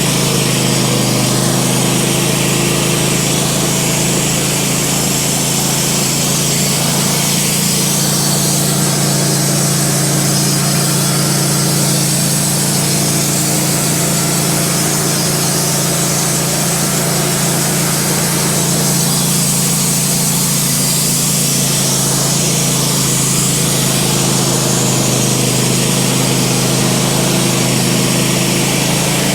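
Wood-Mizer LT15 portable band sawmill running at a steady, constant pitch while its band blade saws through a well-aged maple log.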